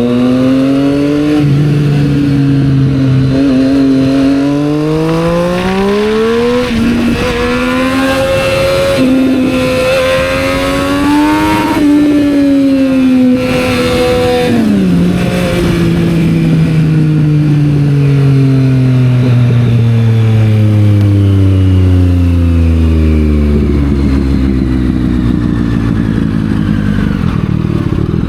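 Triumph Street Triple 765 R's inline three-cylinder engine through a Yoshimura exhaust, accelerating hard through the gears. The pitch climbs and drops back at each upshift, twice in the first several seconds, then holds high. About halfway through the throttle closes and the engine note falls steadily as the bike slows toward a low rumble near the end.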